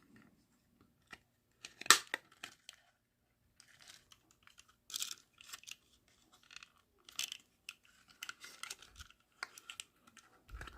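Thin Lexan body of a micro RC truck being handled and pressed onto its small plastic chassis: scattered light plastic clicks and rustling, with a sharper snap about two seconds in.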